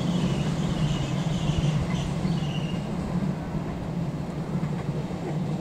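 Passenger train coaches rolling away on a curve: a steady low rumble of wheels on the rails, slowly fading, with faint high wheel squeals during the first three seconds.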